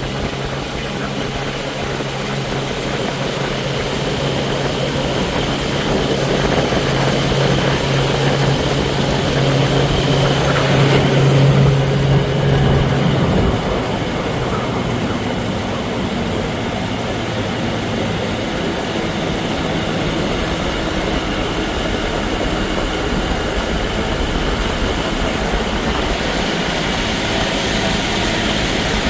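1961 Johnson 20 hp outboard motor running under way, with a steady rush of wind and water. A strong low engine note drops away about halfway through while the motor and rush carry on.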